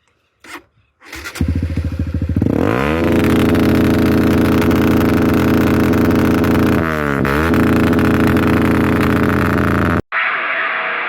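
Motorcycle engine running in slow, even pulses, then revving up to a steady high-rev note. The pitch dips briefly and climbs back about seven seconds in, and the sound cuts off suddenly near the end.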